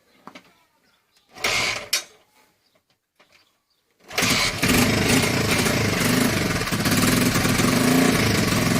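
A short burst of noise about a second and a half in, then the single-cylinder four-stroke engine of a Honda XL125S catches about four seconds in and settles into a steady idle. It is running on its newly fitted carburettor.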